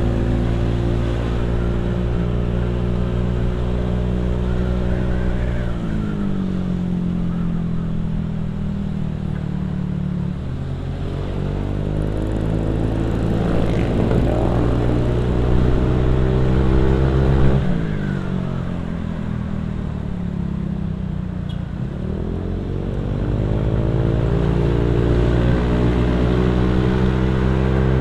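Motorcycle engine and exhaust running under way, its revs dropping about six seconds in and climbing again from about ten seconds. The pitch drops sharply near seventeen seconds, as at a gear change, then falls and rises again in the last third.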